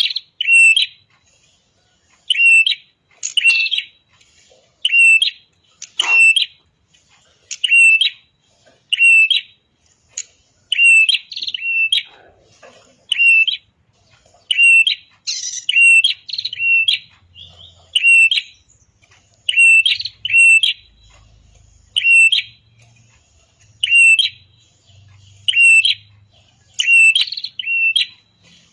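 Red-headed prenjak calling: loud, sharp chirps repeated about once a second, often in quick pairs.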